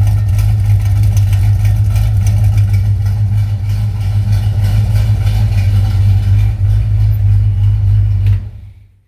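1966 Chevrolet C10 pickup's engine running at a steady idle. The sound fades out near the end.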